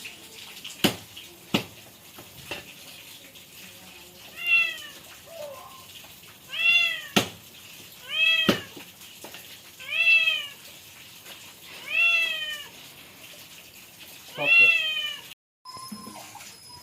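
A cat meowing six times, each call rising and then falling in pitch, about every two seconds, with a few sharp clicks or knocks in the first few seconds.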